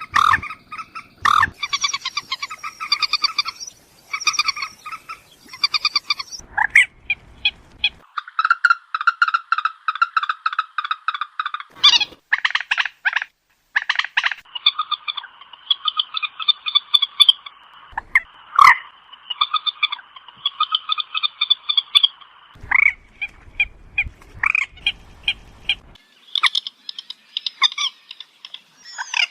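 Moorhen calling: runs of rapid, evenly repeated clucking notes, each run a few seconds long with short breaks between, as played on a bird-trapping lure track.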